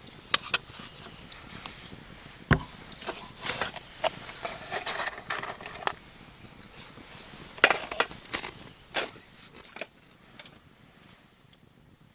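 Irregular knocks, clicks and clatter of things being handled, with one heavy thump about two and a half seconds in; it quietens near the end.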